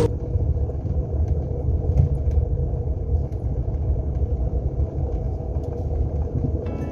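Renault Sandero on the move: a steady low rumble of engine and road noise.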